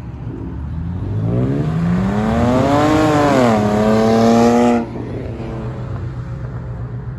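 A car engine revving up over a couple of seconds, dipping briefly, then held high before dropping off suddenly about five seconds in. A steady low engine rumble runs underneath.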